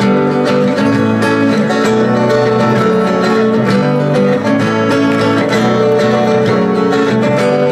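Acoustic guitar playing, with plucked notes that ring on over one another.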